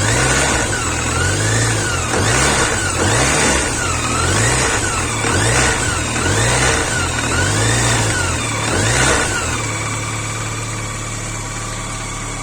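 BMW K1100 motorcycle's inline four-cylinder engine revved in quick repeated blips, about one a second, then settling back to a steady idle near the end.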